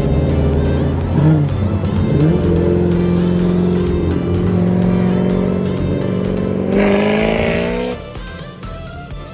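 Car engine revving: two quick blips about a second and two seconds in, a steady run, then a harder rise in pitch with a rush of noise that cuts off about eight seconds in.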